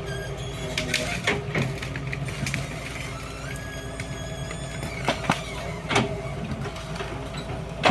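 Excavator's diesel engine running steadily, with a handful of sharp knocks and clanks from the bucket working gravel and a short, slightly rising hydraulic whine in the middle.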